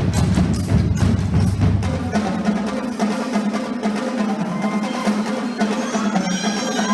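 Marching drumline playing a cadence: fast snare and tenor drum strokes over bass drums. The bass drums drop out about two seconds in, leaving the rapid higher drum strokes, and a few held high tones come in near the end.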